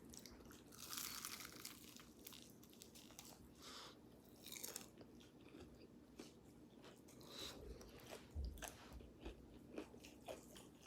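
Biting into and chewing crispy fried chicken close to the microphone: crackling crunches of the fried breading, in bursts about a second in and again around four seconds in, then smaller wet clicks and smacks of chewing.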